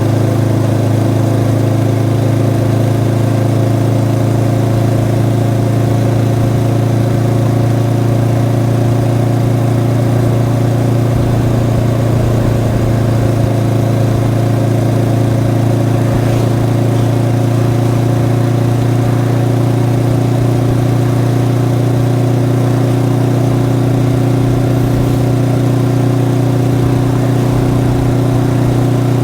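Honda CB500X's stock parallel-twin engine running at a steady, nearly unchanging pitch while the motorcycle is ridden.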